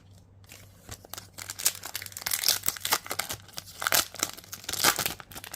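A trading-card booster pack's foil wrapper being torn open and crinkled by hand: a dense run of crackling and tearing starting about half a second in, busiest in the middle.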